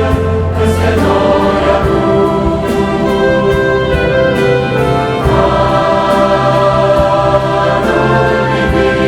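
Choir singing a Christian worship song with orchestral accompaniment and a steady beat, sustained chords changing every second or two.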